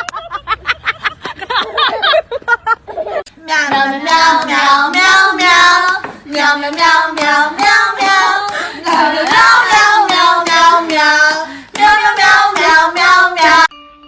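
A voice in long, loud, wavering sung notes for about ten seconds, cutting off sharply near the end. It is preceded by about three seconds of rapid pulsing vocal sounds.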